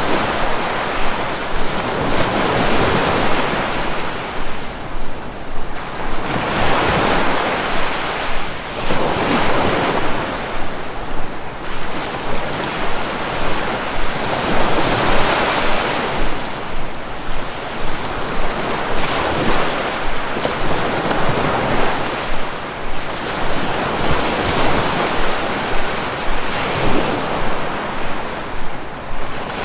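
Sea waves breaking and washing on the shore, the surf rising and falling in swells every few seconds.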